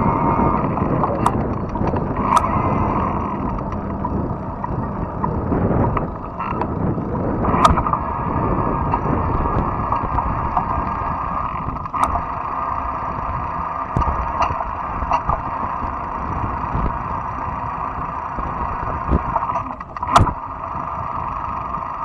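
Riding noise of a fat-tire electric bike: a steady rumble of wind and tyres with a constant hum, broken by sharp clicks and knocks from bumps about half a dozen times.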